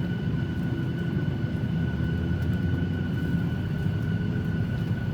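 Cabin noise inside a Boeing 737-800 during pushback: a steady low rumble with a thin, steady high whine over it.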